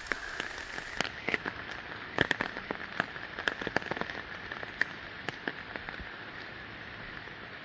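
Steady rain falling, with scattered sharp drops tapping at irregular moments.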